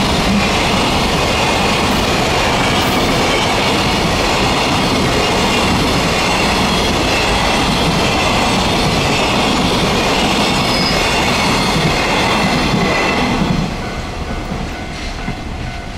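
Container wagons of a freight train rolling past on the rails, a steady loud noise of wheels on track. The sound drops off sharply near the end as the last wagon goes by.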